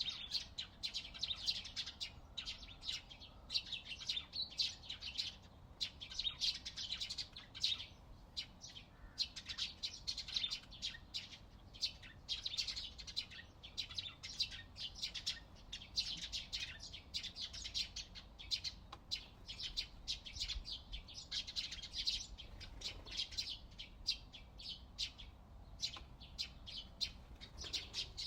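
Many small birds chirping and singing at once, a dense, continuous chorus of quick high chirps.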